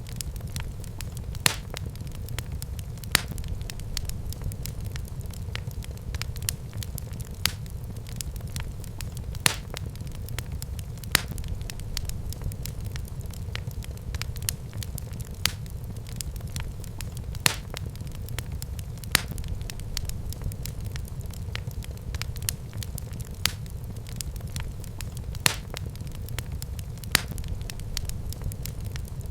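Wood fire burning in a fireplace: a steady low rumble of flames with frequent small crackles and a sharp pop every second or two.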